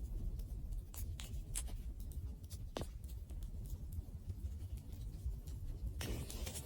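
Wood fire burning: a steady low rumble with scattered sharp crackles and pops, one stronger pop a little before midway. Near the end a soft hiss comes in.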